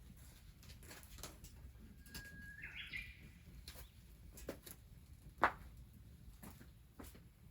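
A short bird call about two to three seconds in, a thin whistle that breaks into a quick cluster of higher notes, over scattered sharp clicks and pops, the loudest about five and a half seconds in.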